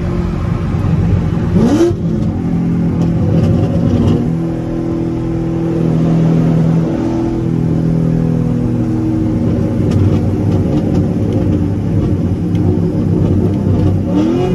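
C7 Corvette's V8 engine heard from inside the cabin, running steadily at highway speed. Its pitch steps up and down a few times as the throttle changes, with a short rising rev about two seconds in and again near the end.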